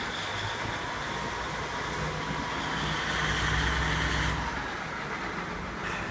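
KiHa 47 diesel railcar's engine running under power as the train pulls away. The drone grows louder about two seconds in, then eases back at about four and a half seconds.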